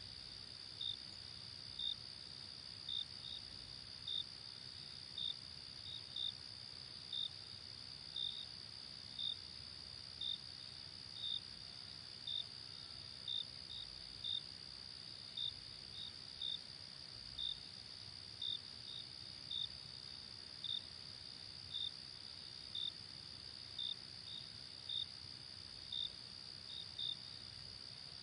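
Night insect chorus: crickets chirping about once a second, sometimes twice in quick succession, over a steady high-pitched insect trill.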